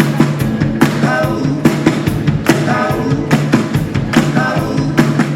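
Live rock and roll band playing the song, with a steady drum-kit beat under bass and guitar.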